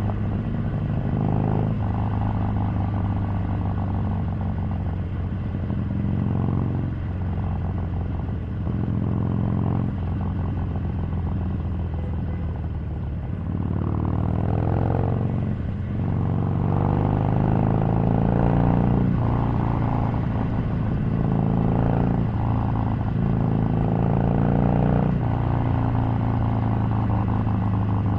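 Harley-Davidson 883's air-cooled V-twin engine running under way, its note rising and falling with the throttle, with a marked climb in pitch about halfway through.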